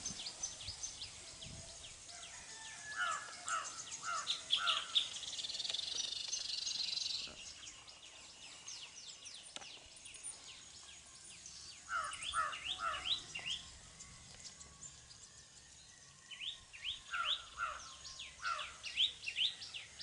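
Common iora calling: three bursts of quick, sharp, down-slurred notes, with a short high trill between the first and second bursts.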